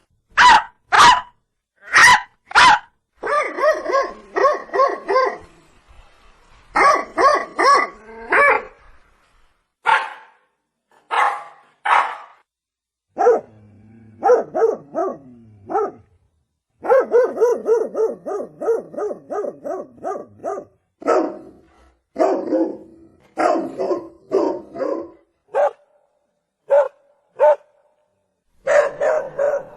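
Dog barking over and over, sometimes single barks and sometimes quick runs of about three or four a second, with a lower, rougher stretch about halfway through.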